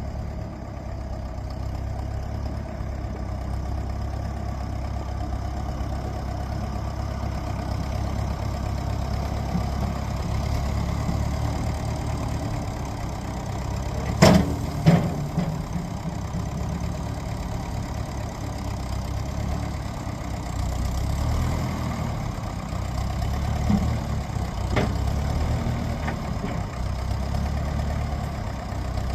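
Ferguson tractor engine running steadily at low revs. Two sharp knocks come about halfway through, close together, and a lighter one comes later.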